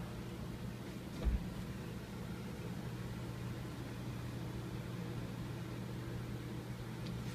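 Air conditioning unit running: a steady hum with a low drone and a hiss of moving air. One short low thump about a second in.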